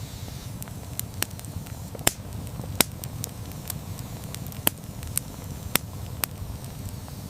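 Wood campfire burning, a steady low flame rumble with irregular sharp crackles and pops about twice a second, the loudest pops a few seconds in.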